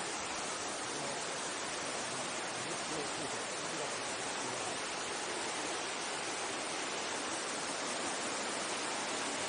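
Mountain stream rushing over rocks: a steady, unbroken hiss of running water.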